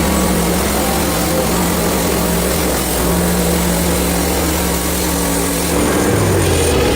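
Portable bandsaw sawmill running with its small engine droning steadily; the engine note shifts lower about six seconds in.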